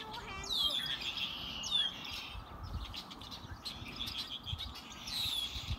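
Small birds chirping, a few high calls that slide downward in pitch: about half a second in, near two seconds, and again near the end.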